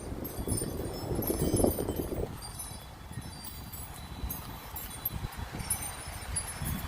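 Wind chimes ringing irregularly in gusty storm wind, over a low rumble of wind that is strongest in the first two seconds.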